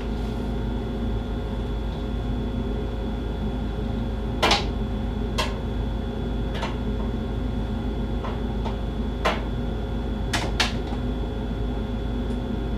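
Furnace draft inducer motor running with a steady hum, drawing vacuum on the pressure-switch port, which the technician finds too weak to close the switch. About eight sharp clicks and taps are scattered over it as a manometer and its tubing are handled.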